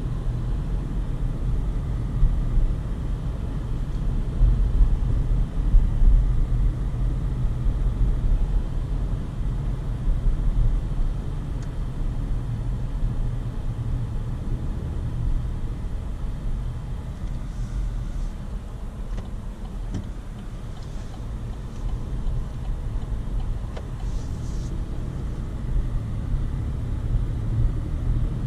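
2020 Chevrolet Colorado Work Truck being driven: a steady low rumble of engine and road noise.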